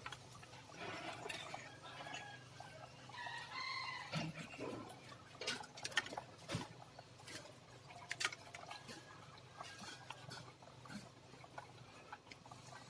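Faint chickens clucking in the background, with scattered small clicks and taps over a low steady hum.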